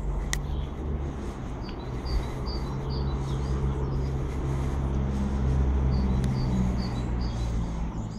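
Small birds chirping in short runs of quick high calls, over a loud, steady low rumble.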